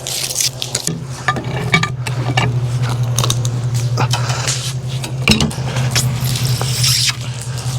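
Wood-Mizer LX25 band sawmill running with a steady low engine hum, over which come repeated metallic clanks and knocks.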